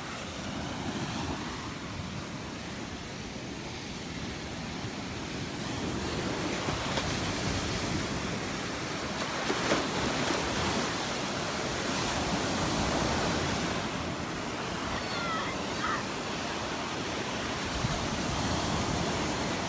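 Gulf surf washing onto the beach, a steady rush that swells in the middle and eases off, with a few faint short chirps near the end.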